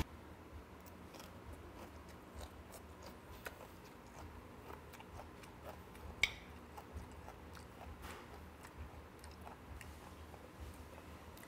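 A person chewing steamed skate with bean sprouts up close: faint chewing with many small clicks, and one sharper click about six seconds in.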